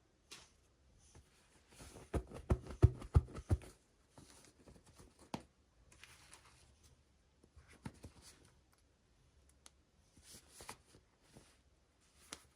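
Hands handling and unwrapping small toy packaging: scattered rustles and clicks, with a quick run of taps and knocks about two seconds in.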